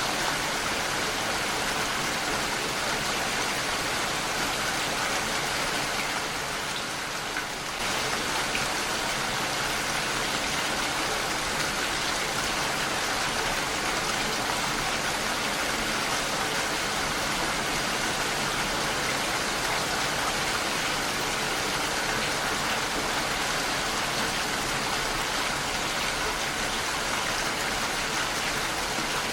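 Heavy rain falling steadily on a window, a dense even hiss of drops that eases briefly about seven seconds in.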